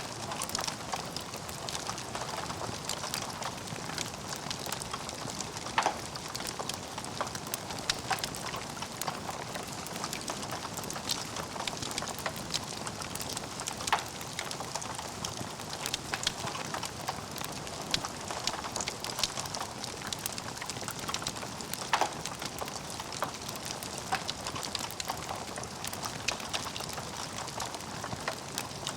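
Log fire crackling steadily in a fireplace, a dense run of small snaps with a few louder pops spaced several seconds apart.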